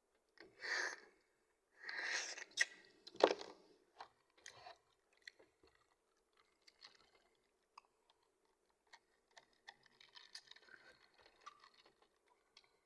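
A person chewing food close to the microphone, with crunchy noisy bites in the first three seconds and a sharp click just after, then scattered small clicks and softer chewing.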